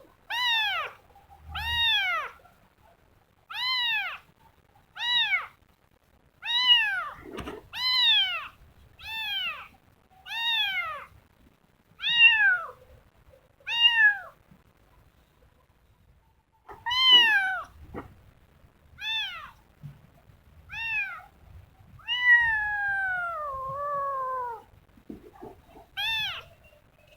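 Kitten meowing over and over: about fifteen short, high meows, each rising then falling, with one longer drawn-out meow sliding down in pitch near the end.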